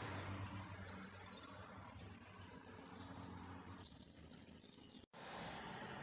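Small birds chirping in short high calls over a faint, steady low hum. The sound drops out for an instant near the end, then a steady noise resumes.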